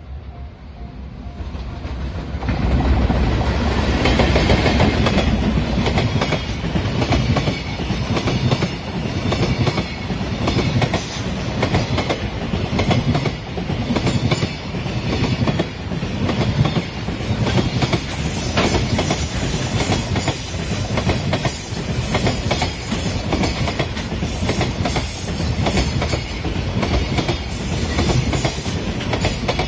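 A long JR Freight container train passing close by: the sound builds over the first few seconds as it arrives, then holds steady as the container flat wagons roll past, their wheels clattering over the rail joints in a quick, uneven rhythm.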